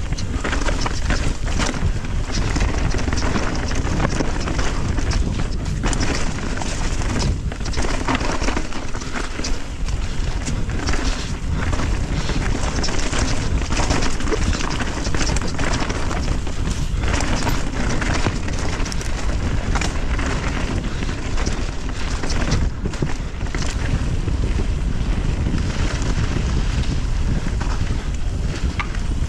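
Mountain bike riding fast down a dirt trail: heavy wind buffeting on the microphone over tyre roar, with many short knocks and rattles from the bike hitting bumps.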